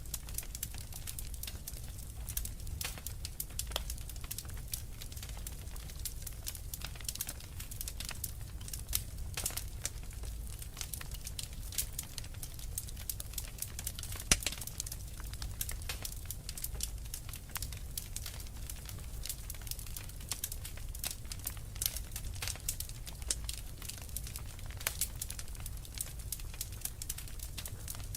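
Wood fire crackling with dense, irregular pops and snaps over a low, steady rumble of the burning; one louder pop about halfway through.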